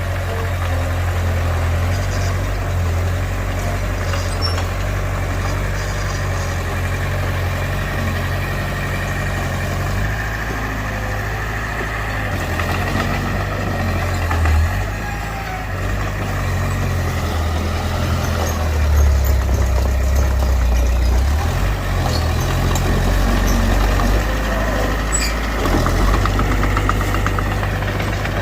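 Heavy diesel machinery working at a dirt site, a deep engine running under changing load that grows louder about two-thirds of the way through.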